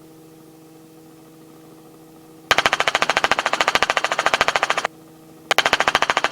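Robinson R44 helicopter's rotor chop, a fast even pulsing, cutting in abruptly about two and a half seconds in, dropping out for about half a second, then cutting back in, as the intercom microphone opens and closes over the steady cockpit hum.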